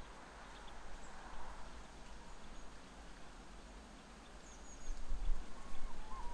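Outdoor ambience with faint bird calls: a few thin, high chirps and a short whistled note near the end, over a low rumble that swells about five seconds in.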